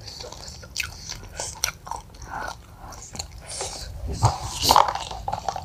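Close-miked eating of spicy fried chicken: irregular chewing, biting and wet mouth smacks, louder for a moment about four to five seconds in.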